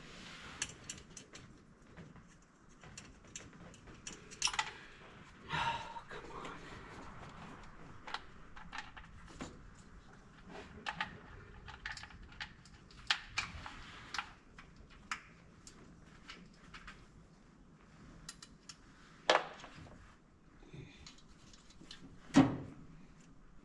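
Scattered light clicks, clinks and knocks of tools or parts being handled, with two sharper knocks near the end.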